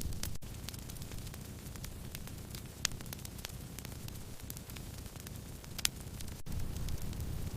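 Firewood burning in a campfire: a steady low rumble of flame with scattered small crackles and two sharper pops.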